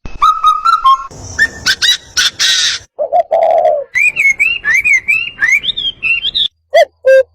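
Several different birds calling in quick succession, each cut changing abruptly: short whistled notes, then harsher rasping calls, a low coo-like call about three seconds in, a run of rising-and-falling whistled notes, and sharp repeated notes near the end.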